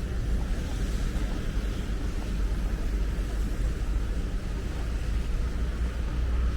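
Wind buffeting the microphone, a steady low rumble, over a continuous wash of street traffic noise.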